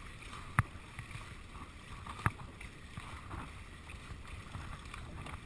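Dragon boat moving on the water: steady wash of water and wind, with two sharp knocks, one just under a second in and another a little past two seconds.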